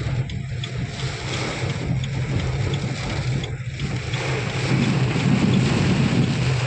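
Heavy rain falling, with wind rumbling on the microphone; the noise grows louder from about five seconds in.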